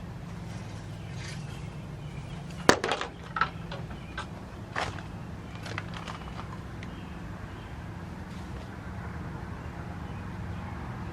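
A handful of sharp snaps and clicks, the loudest about two and a half seconds in, with a few smaller ones over the next few seconds, over a steady low hum.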